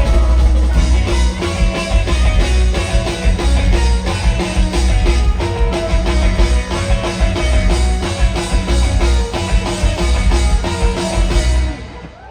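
Rock band playing live without vocals: fast, even drum beat with bass and electric guitar. The music drops away suddenly near the end.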